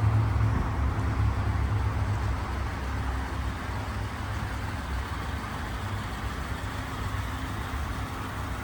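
Ford F-150 pickup's engine running at idle: a steady low rumble, a little louder in the first second or so.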